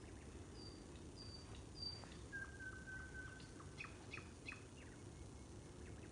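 A bird singing faintly: three short, high, falling notes about half a second apart, then a long steady whistle, then a quick run of sharp notes. A steady low rumble of background noise sits underneath.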